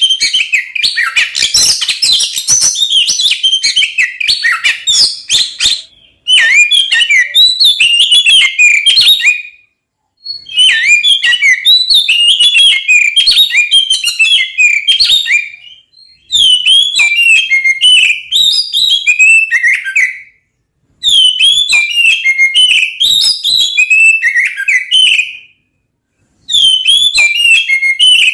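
Oriental magpie-robin (kacer) singing loudly in its aggressive fighting song: fast, varied runs of whistles and chattering notes. The song comes in bouts of four to six seconds with short breaks between them.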